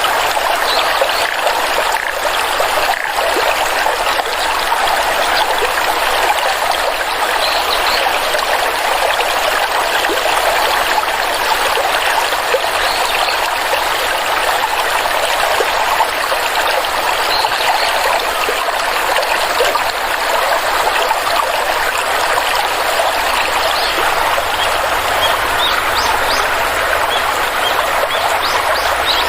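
Flowing stream of water running steadily.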